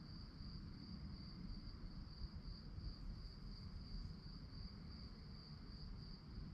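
Crickets chirping at night: a steady, high-pitched pulsing trill, a few pulses a second, over a faint low rumble of background noise.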